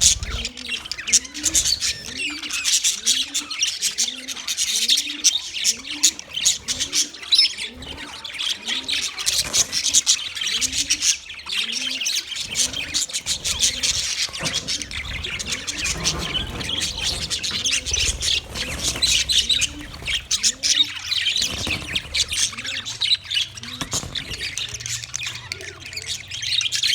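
Budgerigars chattering and chirping in a dense, fast warble with squawks. Beneath it, a low short rising note repeats about twice a second through the first half, then stops.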